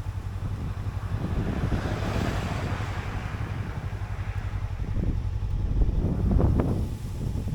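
Suzuki V-Strom 250 parallel-twin engine running with a steady low rumble, mixed with wind buffeting the action camera's microphone; the engine grows louder about six seconds in.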